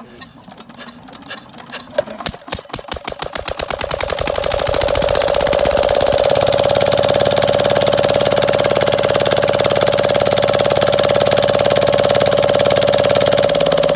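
Diesel engine starting: slow, separate firing knocks speed up over about the first four seconds until it catches and runs at a steady, fast speed.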